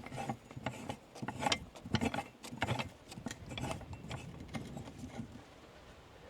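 Irregular metallic clinks and knocks of a freshly welded metal bracket being handled and fitted into place, dying away about five and a half seconds in.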